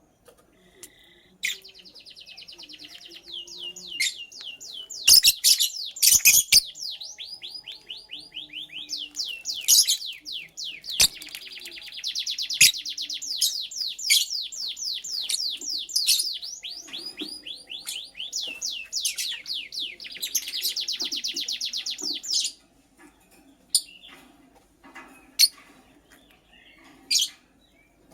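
Lovebird chattering in long runs of very rapid, high-pitched chirps, broken by a few sharp clicks. The chattering stops about three quarters of the way in, leaving only a few scattered single chirps.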